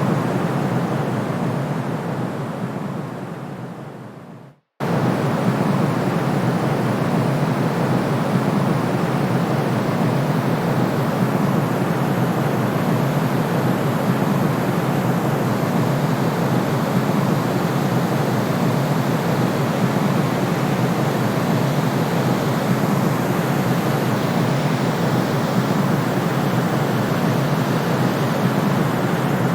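Steady white noise that fades out over the first few seconds, drops to a moment of silence, then cuts back in suddenly and runs on steady.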